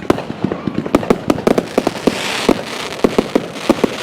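Fireworks going off in a rapid, irregular string of sharp bangs and cracks. A hissing crackle swells about two seconds in.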